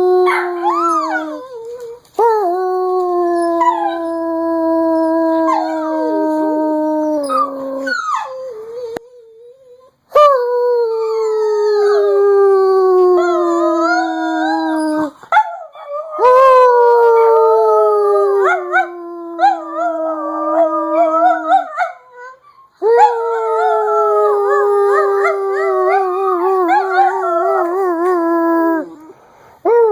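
Two pet dogs howling together: several long howls that slowly fall in pitch, with short breaks between them and the two voices overlapping in places.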